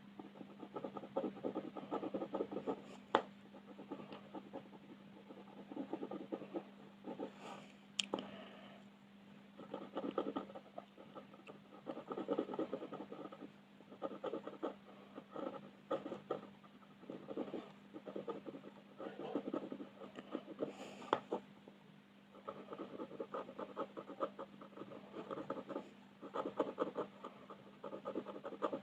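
Coloured pencil scratching on paper in quick back-and-forth shading strokes, coming in runs of a second or two with short pauses. A few sharp clicks and a steady low hum sit underneath.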